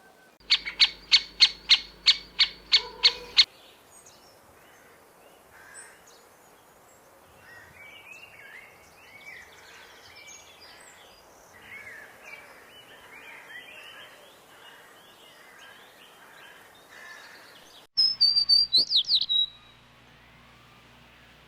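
Bird calls: a rapid, even series of about a dozen sharp high-pitched calls, then quieter scattered chirping of several birds, and near the end a short loud burst of high calls falling in pitch.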